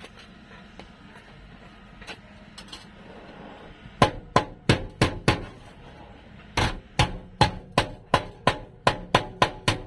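Hammer blows on the steel floor panel of a Toyota Revo under repair, about three sharp ringing strikes a second. There is a short run of blows about four seconds in, a brief pause, then a longer run.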